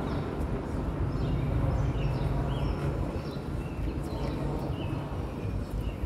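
Small birds chirping in short repeated calls over a steady low outdoor rumble, with a large crowd kneeling quietly and no one speaking.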